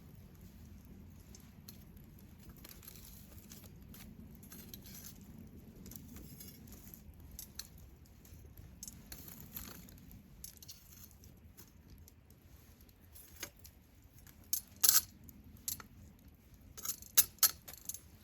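Wood fire crackling faintly with scattered small ticks, then a few sharp, loud pops near the end.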